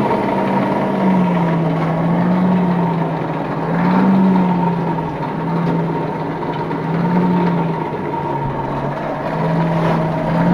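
A steady mechanical drone with a low hum that slowly wavers up and down in pitch every second or two, cutting off abruptly at the end.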